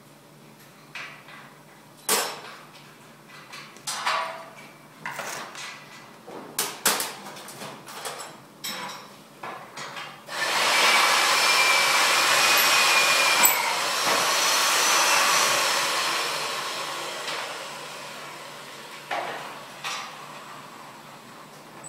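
Irregular hammer blows on metal, a dozen or so over several seconds. About halfway through comes a loud, steady rushing noise from a workshop tool or torch, which fades out slowly, followed by two more knocks.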